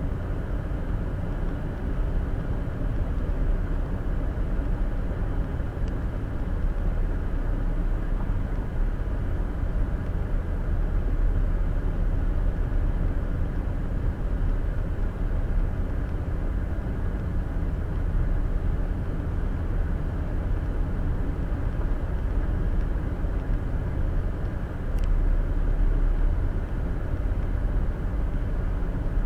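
Steady road noise inside a car cruising on an interstate, heard through a windshield-mounted dash cam: low tyre and engine rumble, swelling briefly near the end.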